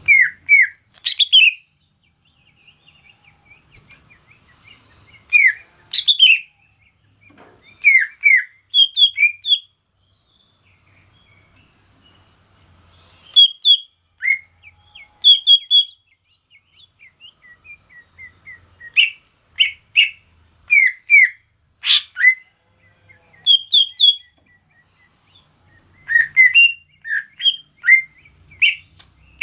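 Cucak ijo (greater green leafbird) singing in loud bursts of quick, sliding whistled notes, a few at a time, repeated every few seconds over a steady high hiss.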